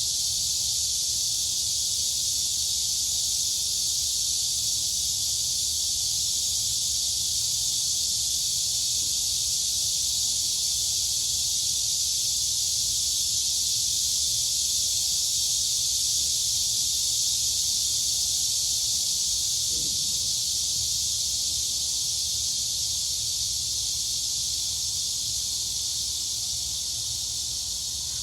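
Crickets and cicadas chirring together in a dense, unbroken high-pitched chorus that holds steady throughout.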